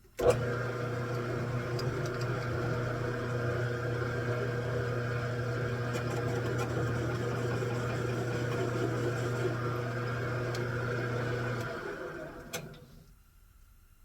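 Lathe motor switched on with a click, running steadily with an even hum for about eleven seconds, then switched off and spinning down, with another click as it stops.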